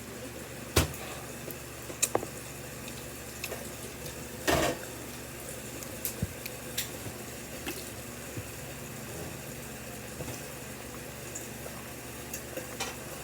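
Someone eating black bean noodles: a few sharp clicks and a short wet slurp about four and a half seconds in, over a steady background hiss.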